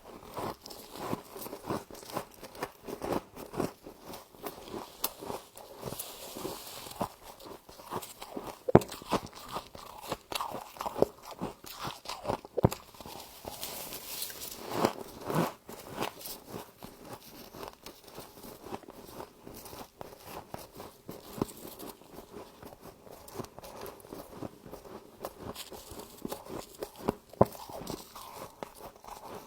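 Close-up chewing of crunchy frost: a steady run of small irregular crunches, with a few louder bites scattered through.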